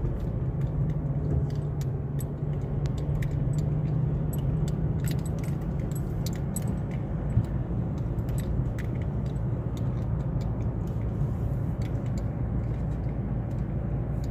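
A motor vehicle's engine running steadily with a low rumble, overlaid by frequent rattling clicks and clinks, as of loose parts or objects jostling on a rough ride.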